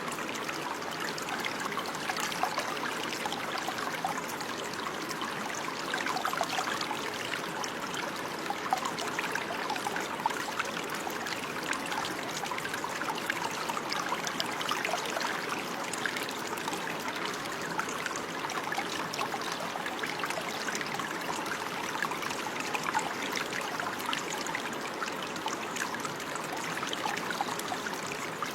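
Running water flowing and trickling steadily like a small stream, a continuous babble of many small splashes.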